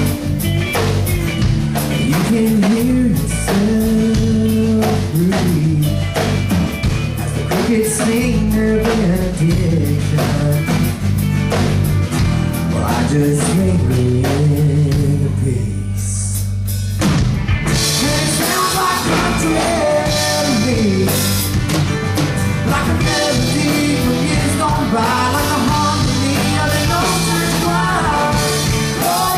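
Live country band playing, with drum kit, bass and guitar. About halfway through the drums cut out for a moment, leaving only low held notes, before the full band comes back in with crashing cymbals.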